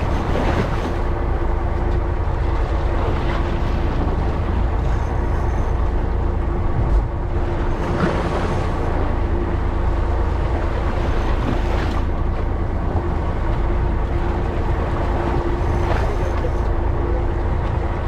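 Fishing boat's engine running steadily, a low rumble with a constant hum, under a wash of wind and water, with a few brief splashes.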